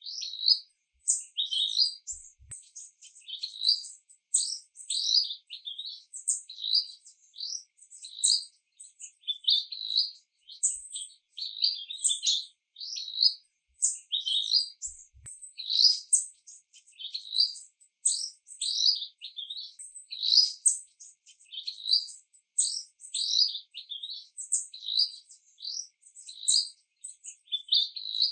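A bird chirping continuously in a rapid string of short, high chirps, about two a second.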